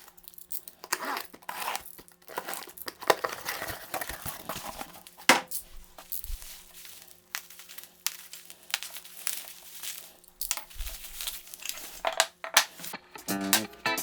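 Crinkling and rustling of wrapping material being handled, with scattered sharp knocks, over a faint steady low hum.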